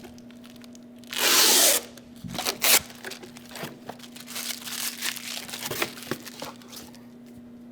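Packing tape ripped off a cardboard shipping box in one long tear about a second in, then rustling and crinkling of cardboard and packaging as the box is opened.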